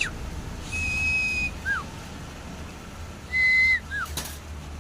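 Clear whistled notes: a long steady note, a short falling note, then a slightly lower long note that dips at its end and another short falling note. A short click follows near the end.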